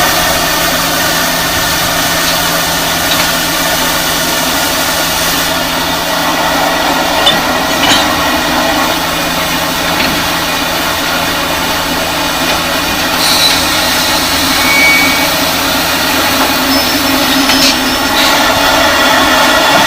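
South African Railways Class 24 steam locomotive running with its train: a steady, loud mixed noise of hiss and machinery, with a few light clicks.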